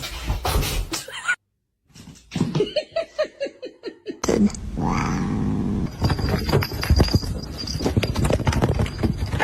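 Cat calls across a few cut-together clips: a quick run of short pitched chirps, about four a second, then a longer meow whose pitch rises and falls over background noise.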